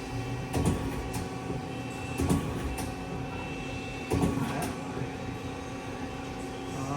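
Hurco TM-6 CNC lathe turret indexing for a tool change: a handful of sharp clunks spread over several seconds, over the steady hum of the running machine.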